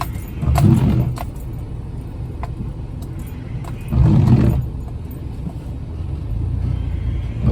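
Jeep Wrangler engine running low and steady while crawling, with three short surges of throttle about three and a half seconds apart, and a few sharp knocks around the first surge.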